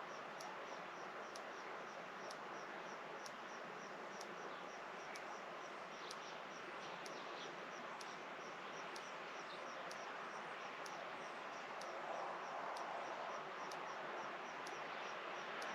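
Faint rural outdoor ambience: a steady, even hiss with a rapid, regular high-pitched chirping, several chirps a second, typical of an insect calling.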